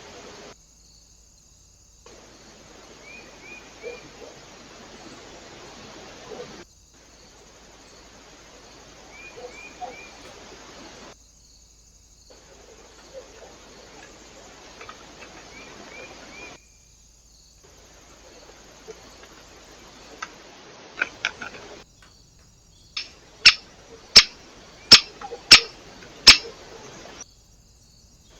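Steady hiss from a trail camera's microphone, with a few small bird chirps in quick threes and soft ticks. Near the end come about half a dozen loud, sharp taps, roughly two a second.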